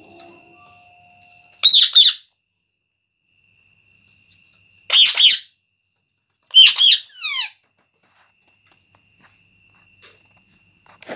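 Pet parrot giving three loud bursts of harsh calls, about two, five and seven seconds in, the last ending in a few quick falling notes.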